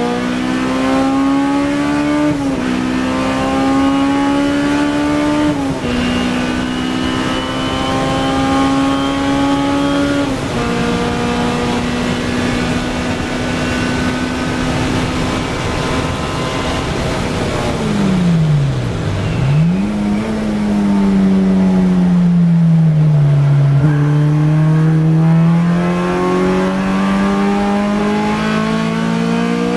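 Honda Civic EK9 race car's engine heard from inside the cabin at full throttle, the revs climbing and dropping sharply at three upshifts in the first ten seconds, then holding a steady high note at top speed. About eighteen seconds in the note falls steeply and jumps back up as the car brakes and downshifts, sags through a corner, and climbs again under acceleration near the end.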